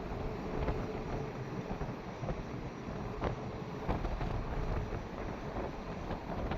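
Wind buffeting the microphone in uneven gusts with a deep rumble, over a faint steady hum.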